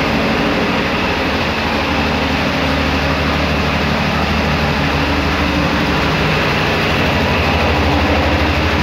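Honda Gold Wing 1500 SE's flat-six engine running steadily.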